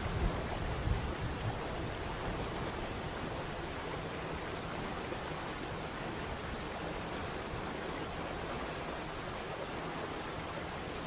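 Steady rushing of a waterfall, an even hiss of falling water with no breaks, with a low rumble that fades out in the first second or so.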